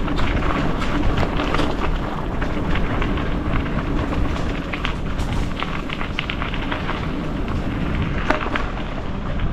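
Mountain bike being ridden along a dirt singletrack: steady wind rumble on the microphone, tyres running over dirt, and frequent short clicks and rattles from the bike over bumps.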